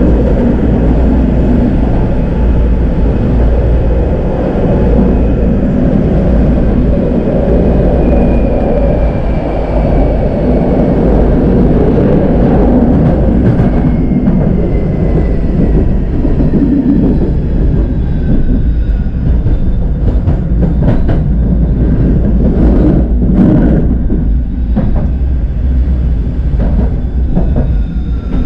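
Electric tram running on its rails: a steady rolling rumble with the traction motors' whine slowly falling in pitch as it slows, then a run of clicks and knocks from the wheels over track joints in the last several seconds.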